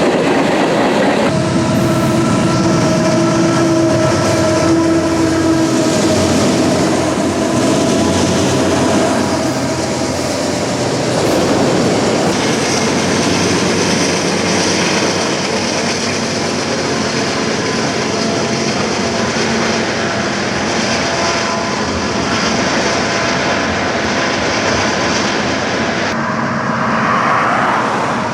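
Freight train led by GE AC44CW diesel-electric locomotives rolling past with a steady rumble and wheel noise on the rails. A steady tone is held for a few seconds near the start.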